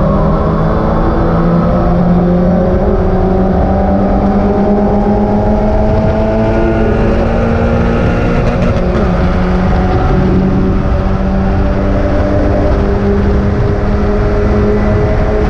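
Mazda MX-5 race car's four-cylinder engine running hard under load, its pitch climbing slowly, easing off about halfway through and then climbing again, over a steady rumble of road and wind noise.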